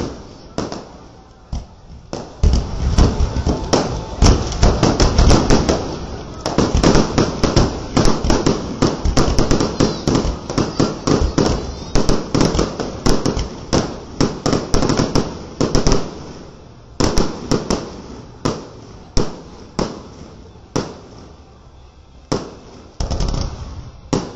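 Aerial fireworks display: a dense run of rapid bangs and crackling, then fewer, spaced-out bangs in the last third.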